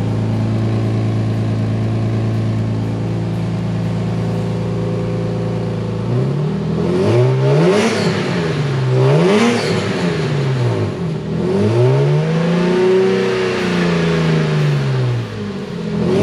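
Lexus IS300's 2JZ-GE inline-six, breathing through a cheap aftermarket stainless header and Y-pipe, running at a steady pitch, then from about six seconds in revving up and dropping back several times.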